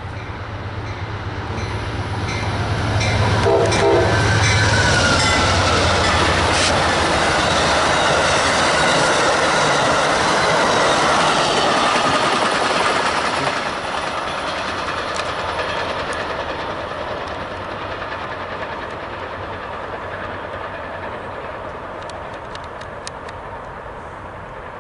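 Amtrak passenger train led by a P42DC diesel locomotive passing at speed. A low engine hum builds into the rush of the passing cars, loudest from about 3 to 13 seconds in, then slowly fades with a few wheel clicks near the end.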